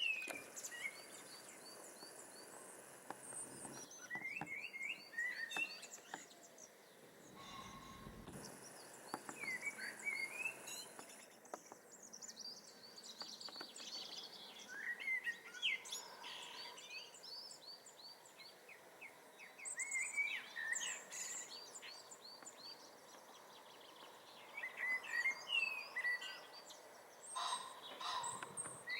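Common blackbird singing: warbled phrases come every few seconds with short pauses between them, while other small birds chirp in the background.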